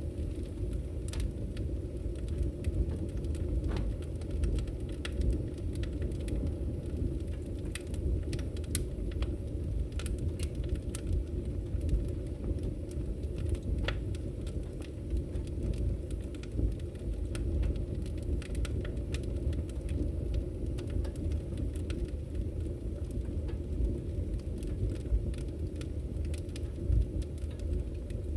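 Campfire crackling: a steady low rush from the burning wood, with frequent sharp pops and snaps at irregular intervals.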